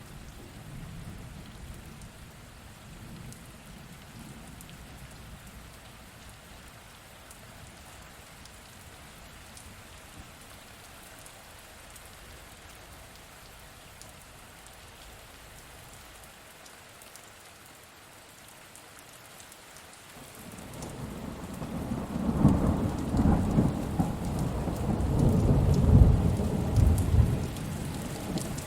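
Steady rain hissing, with a loud roll of thunder building about two-thirds of the way through and rumbling on to the end.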